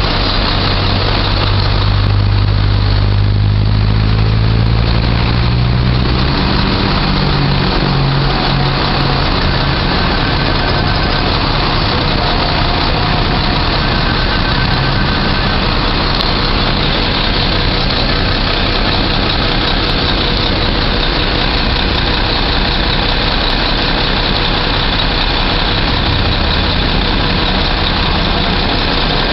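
Boom truck's engine idling steadily, its low engine tone strongest in the first six seconds, over a constant hiss of noise.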